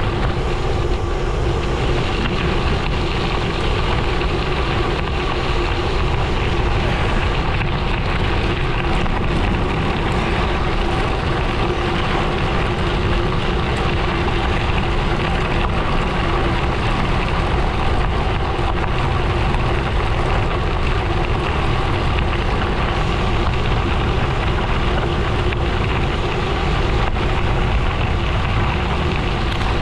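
Gravel bike rolling steadily at speed: continuous tyre noise and wind rushing over the microphone, with a faint steady hum under it.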